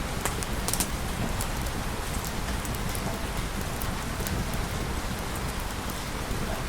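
Steady rain falling, with a deep steady rumble underneath and scattered sharp ticks.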